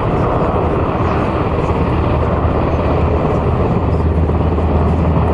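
HH-60G Pave Hawk helicopter running steadily and loud, the twin-turboshaft helicopter's rotor beating with a deep steady throb.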